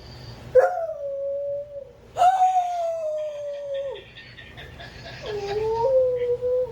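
A dog howling: three long howls in a row, each ending with a drop in pitch.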